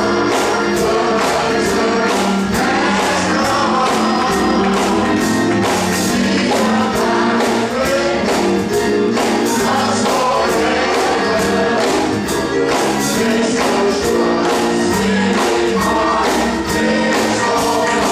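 Gospel choir singing with instrumental accompaniment and a steady drum beat.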